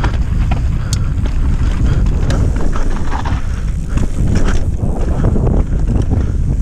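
Strong wind buffeting the microphone over the rolling rumble of a mountain bike descending a rough dirt trail, with scattered sharp clicks and rattles from the bike and trail.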